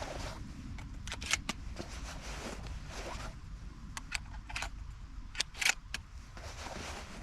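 Handling noise from a pump shotgun: a scattering of light metallic clicks and rustling, with no shots fired.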